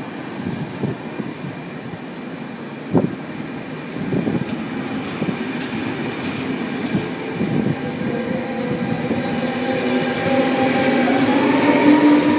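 Trenitalia Vivalto double-deck regional train with an electric locomotive, moving through the station and gathering speed. Wheels click over the rail joints, then the locomotive's electric whine builds and rises in pitch as it passes, loudest near the end.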